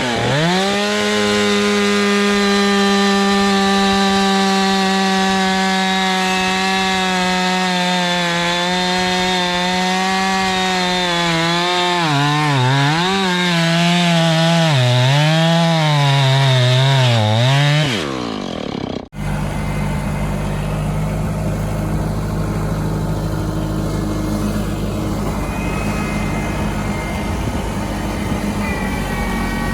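Two-stroke chainsaw revved up to full throttle and cutting through a hardwood log. Its pitch dips and wavers repeatedly in the second half as it loads in the cut, and it stops about 18 seconds in. After that a lower, steady engine runs.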